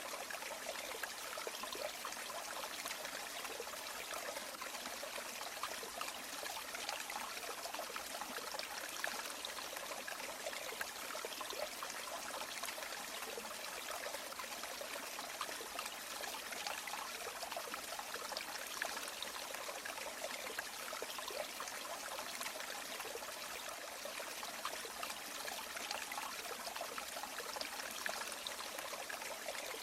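Small river or stream running steadily over stones, a continuous babble and trickle of water.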